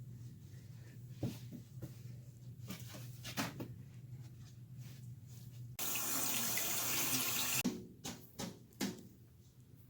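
Water running from a tap for about two seconds, starting about six seconds in and cutting off abruptly, amid scattered light knocks and clicks.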